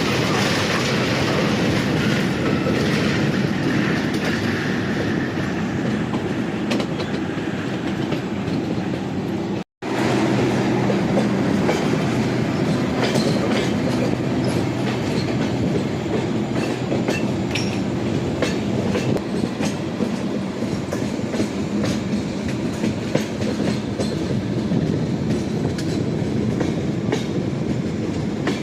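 Passenger train running along the track: a steady rumble with the wheels clacking over the rail joints. The sound cuts out for an instant about ten seconds in.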